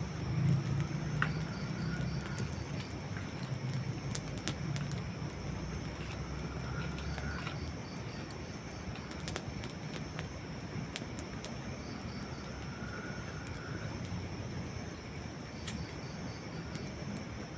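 Campfire of dry wood burning: scattered sharp crackles and pops over a steady hiss, with a low rumble through the first half.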